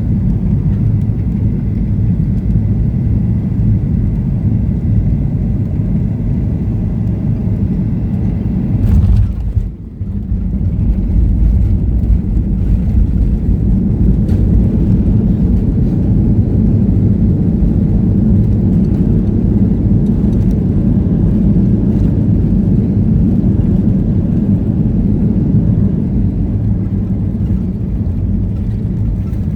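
Steady low rumble of a Boeing 737-800 heard from inside the passenger cabin, with a brief dip and a click about nine to ten seconds in.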